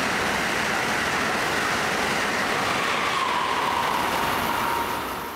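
Amtrak Acela Express high-speed electric trainset passing close at track speed: a loud, steady rush of wheels and air with a faint whine that dips in pitch, falling away suddenly about five seconds in as the train clears.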